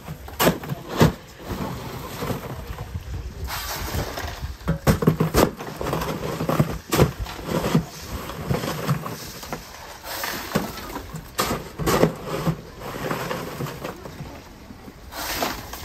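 Fish-market bustle: irregular knocks and clatter, some sharp, over a noisy background with faint voices.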